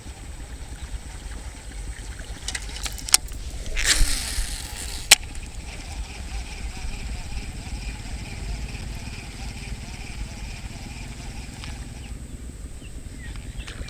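Strong wind rumbling on the microphone, with a few sharp clicks, a brief hiss about four seconds in, and a faint steady high whir in the middle.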